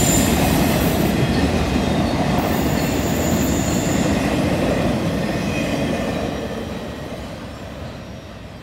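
Freight train autorack cars rolling past on a curve, wheels rumbling on the rails with thin high-pitched squeal tones. The sound fades from about six seconds in as the last car moves away.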